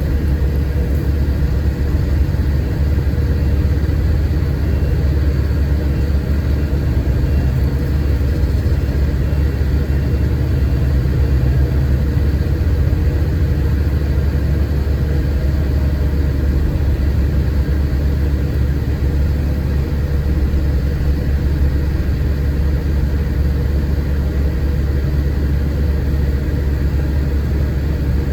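Scania K410 coach's 13-litre straight-six diesel running steadily with a deep, even hum, heard from inside the bus.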